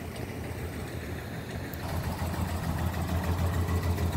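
A car engine running steadily at idle, a low even hum that grows louder about two seconds in.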